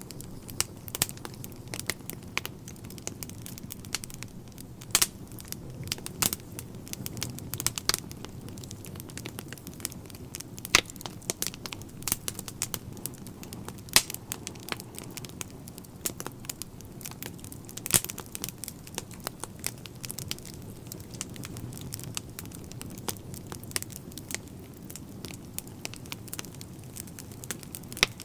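Wood fire in a fireplace crackling, with irregular sharp pops of burning logs over a low steady rumble.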